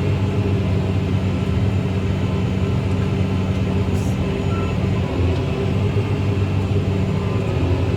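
Farm tractor engine running steadily, heard from inside the tractor cab.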